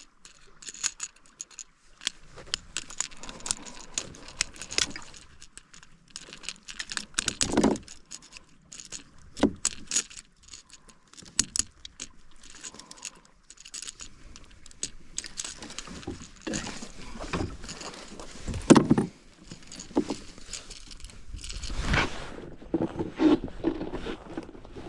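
Metal jingling and clicking of a fishing lure's hooks as they are worked out of a caught bass, with a few louder dull knocks against the kayak.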